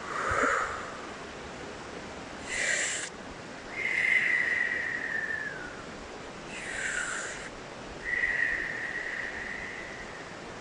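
Breathy blowing sounds alternating with two long whistled notes, each held for about two seconds and sliding slowly down in pitch. A steady stream rushes underneath.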